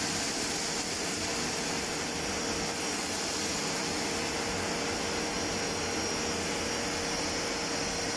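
Kärcher WD 4 S wet/dry vacuum cleaner's 1000 W motor running steadily, a constant rushing of air with a steady high whine over it.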